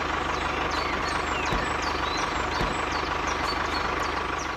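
Vehicle engine idling steadily, with short high chirps like birdsong over it.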